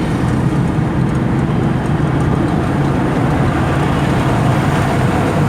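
A car driving on a highway, heard from inside the cabin: a steady engine hum over road and tyre noise.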